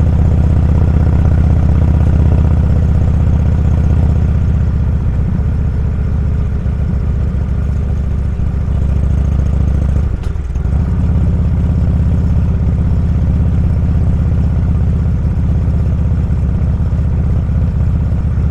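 Motorcycle engine running steadily under way, with a deep, even drone. Its sound briefly drops about ten seconds in, then picks back up.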